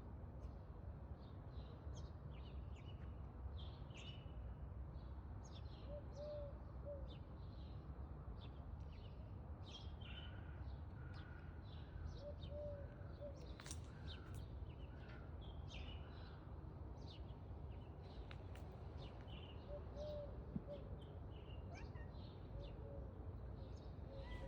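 Birds chirping and calling, with many short high chirps throughout and a lower three-note call repeating about every seven seconds, over a steady low background rumble.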